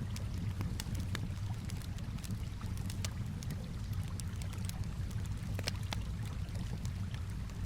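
Campfire crackling in irregular sharp pops over a steady low wash of calm water.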